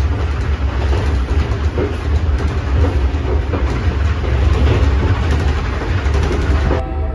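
Passenger train running, heard from inside the carriage: a loud, steady low rumble with continuous rattling and knocking. The sound changes abruptly near the end, turning duller.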